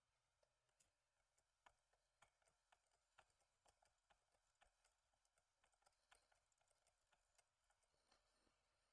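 Near silence with faint, irregular light clicks and taps, about one or two a second, as of small model parts being handled.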